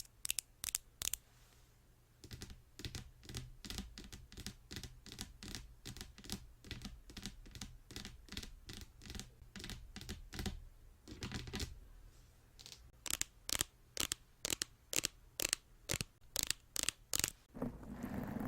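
Tapping on a hard object, a quick even run of sharp taps at about three to four a second, dropping away briefly near the start and growing louder toward the end.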